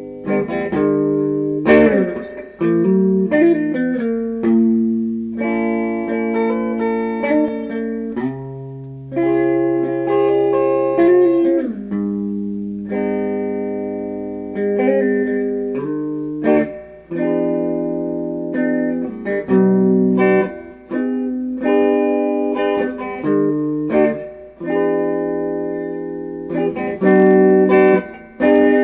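Background music: plucked guitar playing a series of chords, each struck and left to ring for a second or two.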